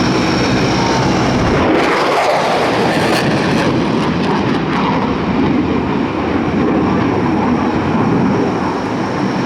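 Airplane engine noise, loud and continuous; the low steady hum drops away about two seconds in, leaving an even rushing noise.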